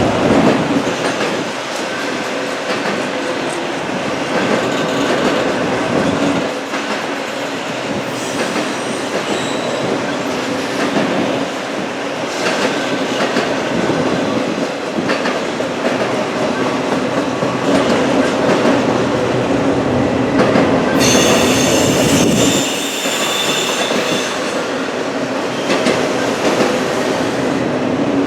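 Norfolk Southern freight train's cars rolling past at the junction in a steady rumble, with a high wheel squeal for about two seconds near the end and a fainter squeal about a third of the way in.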